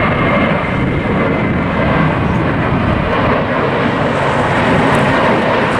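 Jet airliner's engines at takeoff power during the takeoff roll: a loud, steady rushing noise.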